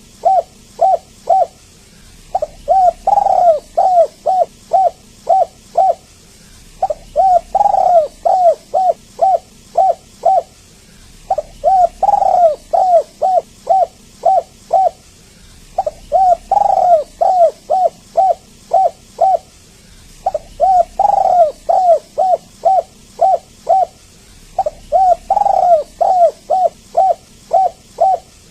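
Spotted dove cooing over and over, phrases of several quick coos each, repeating about every four seconds with brief pauses between them. It is a lure call played to draw other doves and get them to sing.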